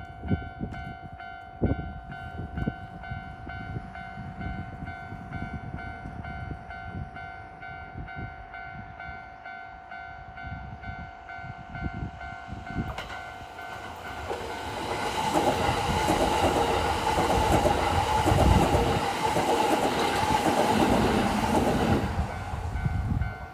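A Japanese level-crossing warning bell rings with a steady, evenly repeated electronic clang. From about halfway through, a Kintetsu 8A series and 9020 series coupled electric train runs through the crossing. It is loudest for about seven seconds, with the noise of wheels on rails, then fades near the end.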